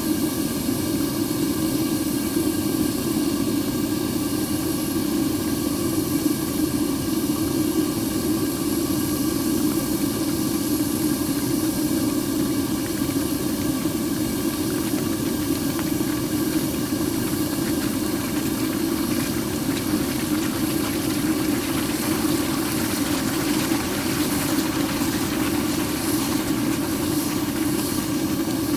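Steady roar and hiss of a furnace burner running, with no let-up.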